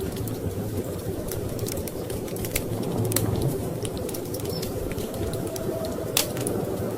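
Wood fire crackling in a fireplace, with scattered sharp pops and one louder pop near the end, over a steady low rumble of storm wind.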